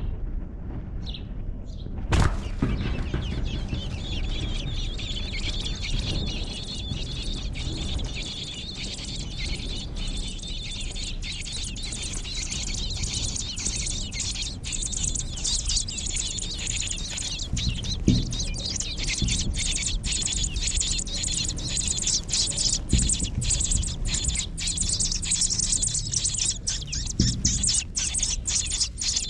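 Nestling birds begging in the nest, a dense, rapid high-pitched chirping that grows louder near the end, over a steady low rumble of barn noise, with a few sharp knocks.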